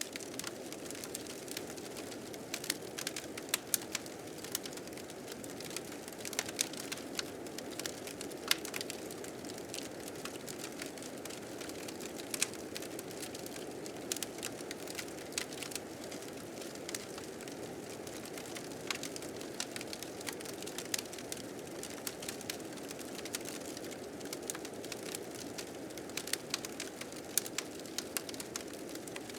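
Steady blizzard wind with a fire crackling over it in sharp, irregular pops.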